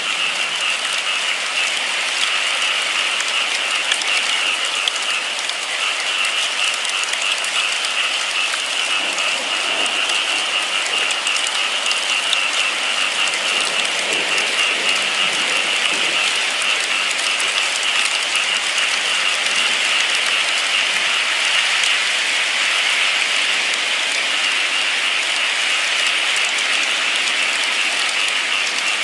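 Steady rain falling: a dense, even patter of drops with no break.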